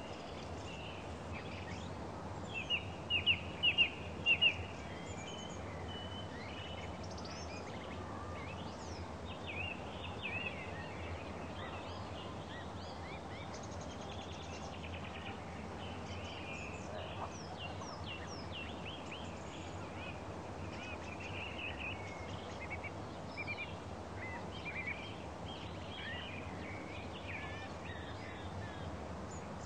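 Birds chirping and twittering in short high calls, with a louder run of chirps about three seconds in and scattered calls after, over a steady low background noise.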